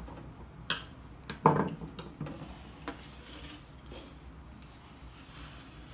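An amplifier being turned around by hand on a surface: a sharp click, then a knock about a second and a half in, a few lighter clicks, and faint scraping.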